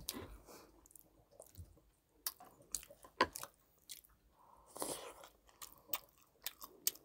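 Close-miked chewing and biting of soft food, with scattered sharp clicks and smacks and a louder cluster about five seconds in.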